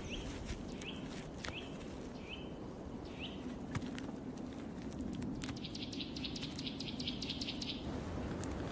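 Birds calling over a steady outdoor background: a string of short, high chirps about a second apart, then a rapid high trill lasting a couple of seconds.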